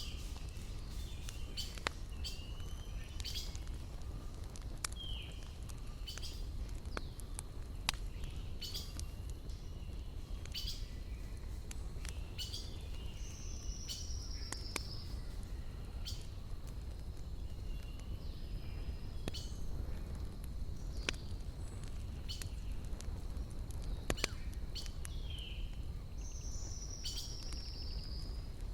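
Campfire crackling with irregular sharp pops over a steady low rumble. A bird sings a short, falling trilled phrase twice, in the middle and near the end, with a few shorter calls between.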